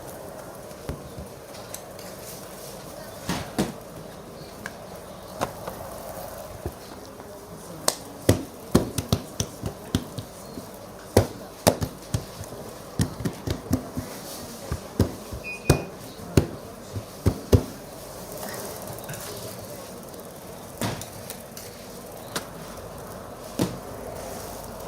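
A long run of sharp, irregular strikes of a tool on a hard surface, a few scattered at first, then coming thick and fast through the middle before thinning out again, over a steady background hum.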